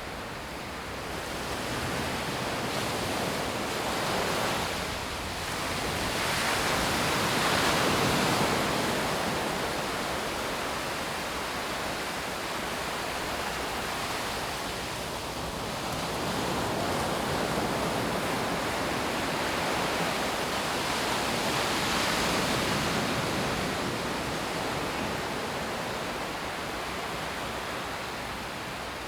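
Sea waves breaking and washing up a sandy beach, a steady rush of surf that swells and eases every several seconds.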